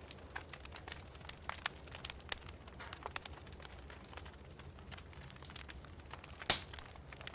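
Wood fire in a fireplace crackling: irregular sharp snaps and pops over a low steady rumble of the flames, with one louder pop near the end.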